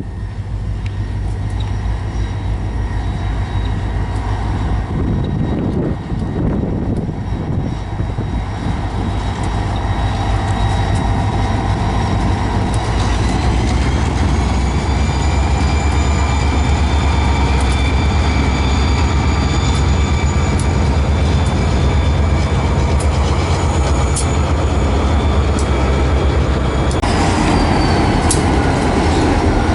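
Train rolling past on jointed track, a steady low rumble of wheels and cars. Thin high-pitched wheel squeals join about halfway and shift in pitch near the end.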